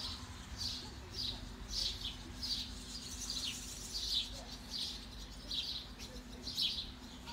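A small bird chirping over and over, short chirps that fall in pitch, about one or two a second.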